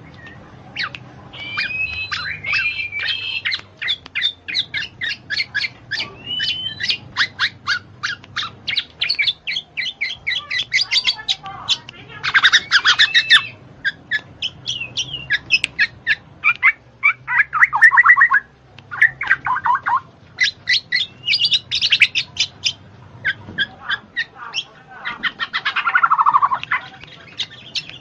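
Bird calls: a near-continuous run of rapid short chirps, broken by louder, harsher squawking calls, some of them sliding down in pitch.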